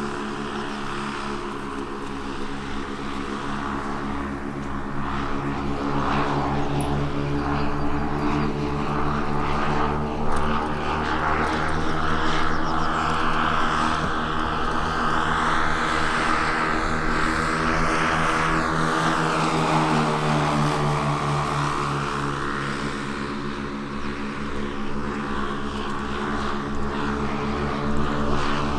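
The twin propeller engines of a quarter-scale radio-controlled Beech 18 model airplane droning steadily in flight. It grows louder a few seconds in as the plane comes closer, dips a little near the end, then rises again.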